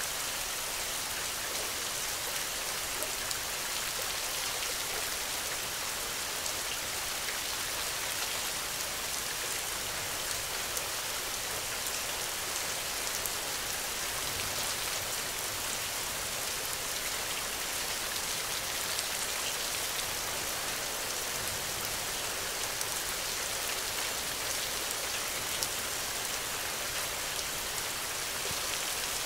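Steady rain falling: a dense, even hiss of drops with many small ticks of single drops, never letting up.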